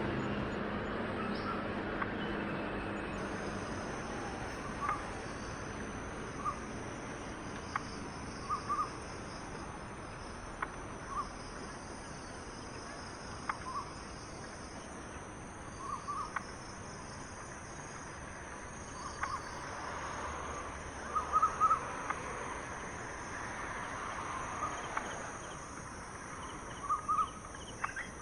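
Short calls from an animal, likely a bird, repeated irregularly every second or few seconds, with a brief flurry about three quarters of the way in, over a steady high insect drone that starts a few seconds in.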